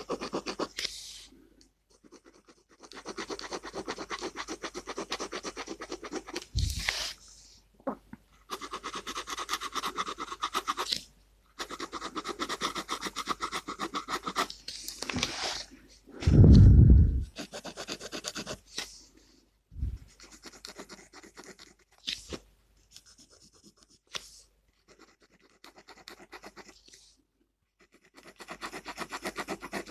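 Gel pen nib scratching on paper in runs of quick short strokes, with short pauses between runs. There is one heavy thump about halfway through.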